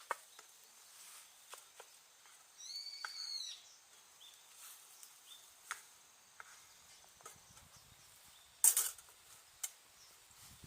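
Wood campfire crackling with scattered small pops, a bird calling once about three seconds in, and a single louder knock about nine seconds in.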